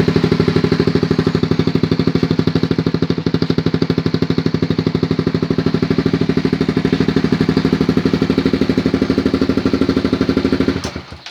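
Suzuki GSX motorcycle idling through an SJR Gasello aftermarket exhaust, a steady, even beat of exhaust pulses. It stops abruptly near the end.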